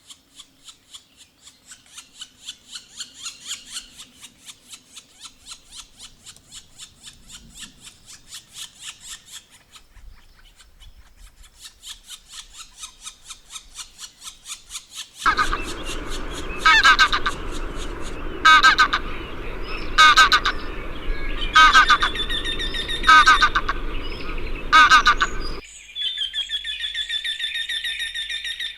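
Birds calling. A fast, even ticking trill gives way about halfway through to a louder stretch over a noisy background, with a call repeated about every second and a half. This stretch cuts off suddenly and is followed by a high, fast trill.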